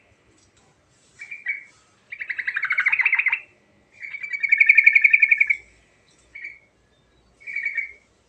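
Yellow-vented bulbul (trucuk) singing in rolling bursts of rapid, bubbly notes: a short phrase about a second in, two long rolled phrases after two and four seconds, then two short notes near the end.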